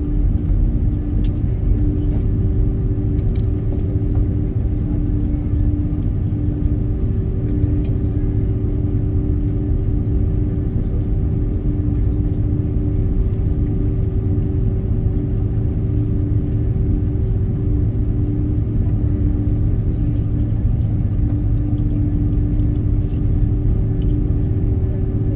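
Steady rumble of an airliner heard inside the passenger cabin while it is on the ground before takeoff, with a steady hum running through it and a few faint ticks.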